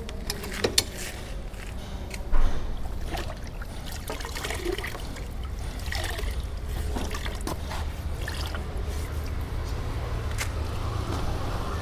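Hand-washing a motorcycle: water trickling and scattered knocks and wipes against the bike over a steady low rumble, with two sharper knocks about one and two and a half seconds in.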